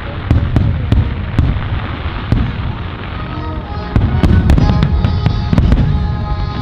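Aerial fireworks going off in quick succession: dense low booms with many sharp cracks. From about halfway, steady music-like tones sound along with the bursts.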